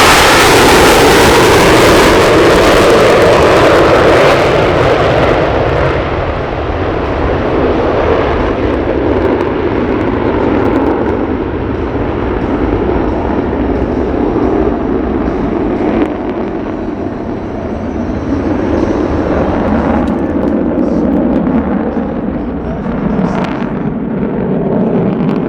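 Jet noise from the Blue Angels Diamond's four F/A-18 Super Hornets climbing away after an afterburner takeoff. It is loud and full for the first few seconds, then thins to a lower rumble that swells and fades as the jets move off.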